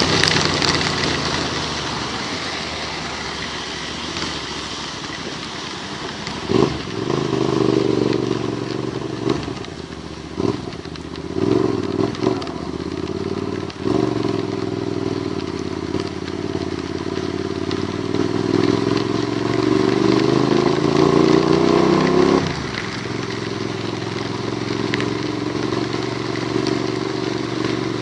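Vehicle engine accelerating through the gears on a wet road, its pitch dropping at several quick shifts and then climbing steadily for several seconds before falling away suddenly, over a steady hiss of rain and tyre spray.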